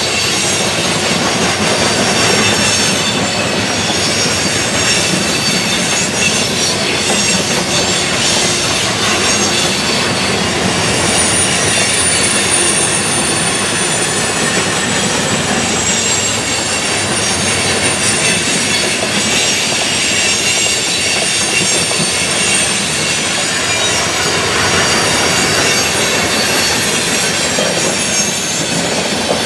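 Freight train of open-top hopper cars rolling past close by: a steady loud rumble of wheels on rail with high-pitched wheel squeal throughout, and a thin extra squeal about eleven seconds in.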